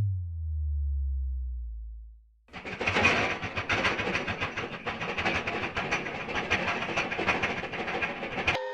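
A deep, falling boom that fades out over about two seconds, then a steady rattling, clattering mechanical noise that cuts off suddenly near the end.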